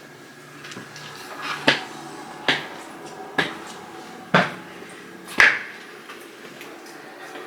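Five sharp knocks or taps, about one a second, over quiet room tone.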